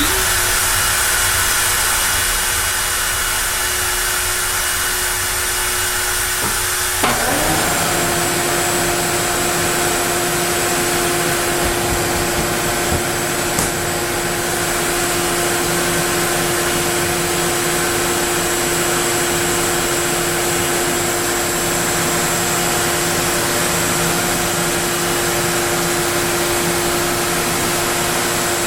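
Onefinity CNC router running and cutting wood, with dust extraction: a loud, steady machine noise with a steady hum, which changes in tone about seven seconds in and then holds steady.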